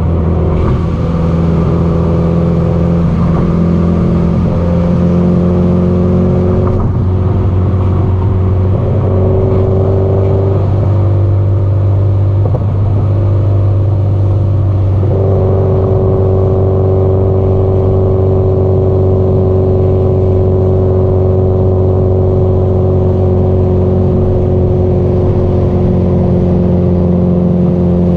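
Subaru Impreza GDB-E's turbocharged flat-four engine and exhaust droning under way, the note shifting up and down several times in the first half as the throttle and gears change, then holding a steady cruising pitch.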